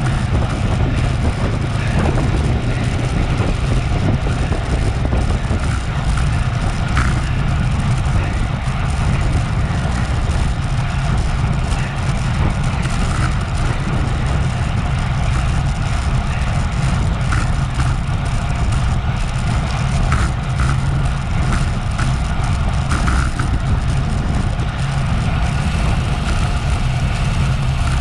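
Wind rushing over a bike-mounted action camera's microphone at racing speed: a steady, loud, low rumble.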